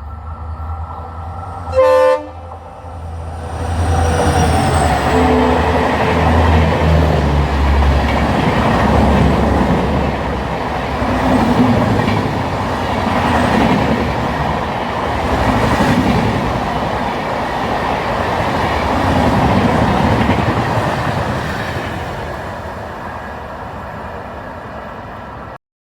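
Indian Railways express train passing close by: a short horn blast, then the locomotive goes by with a drop in pitch, followed by the coaches rattling over the rail joints, fading near the end before cutting off suddenly.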